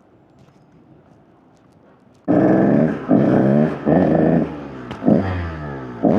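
Faint low noise for about two seconds, then a KTM EXC 125 two-stroke dirt bike engine cuts in loud, revving in repeated bursts, the pitch dropping after each blip of the throttle. The owner says the bike is not running well.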